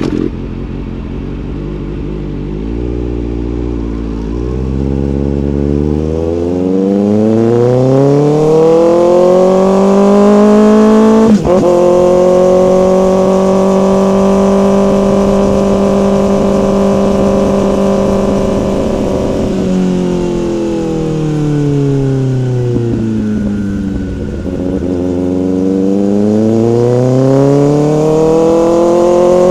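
Motorcycle engine under acceleration: the revs climb over the first dozen seconds with a brief break about eleven seconds in, hold steady and high, drop away as the throttle is rolled off around twenty seconds in, then climb again near the end.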